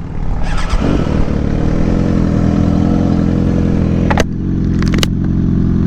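Suzuki GSX-R 600 sport bike's inline-four engine running, getting louder about a second in, with a couple of sharp clicks past the middle.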